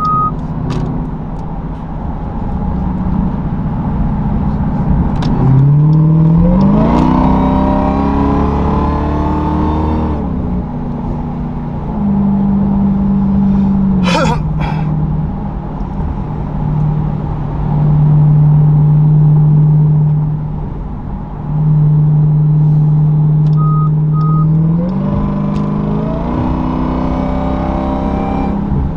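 Dodge Durango SRT Hellcat's supercharged 6.2-litre V8 with its mufflers cut off, accelerating twice with a rising engine note and cruising steadily between, with a drop in pitch from a gear change about twelve seconds in. A sharp click comes about fourteen seconds in, and a short double electronic beep sounds near the start and again around 24 seconds.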